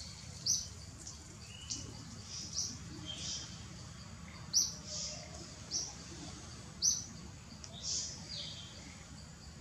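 Forest birds chirping: short, high chirps repeating irregularly, about one a second, over a steady low background rumble.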